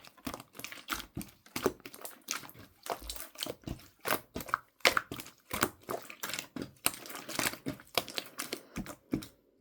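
Slime being squished and poked by hand, giving irregular crackling clicks and small pops, several a second.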